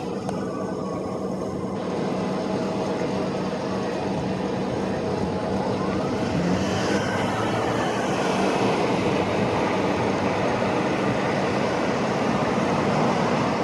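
Steady vehicle noise: a continuous engine drone and rumble with a low steady hum, getting slightly louder in the second half.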